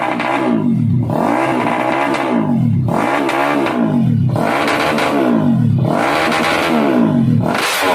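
A vehicle engine being revved again and again, its pitch dropping and climbing back up about once a second.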